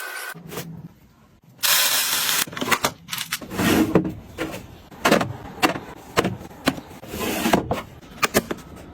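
Household items being handled and set down: a run of sharp clicks and knocks, with a short hiss about two seconds in and another shortly before the end.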